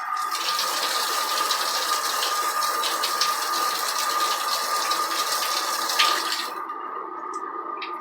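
Water spraying from a handheld adjustable shower head, a steady hiss that cuts off with a click about six seconds in.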